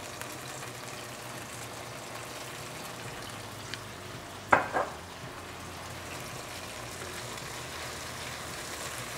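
Soy sauce sizzling in hot oil in a wok with sliced garlic, ginger, scallion whites and dried chilies, a steady frying sizzle while it is stirred. Two sharp knocks about halfway through stand out above the sizzle.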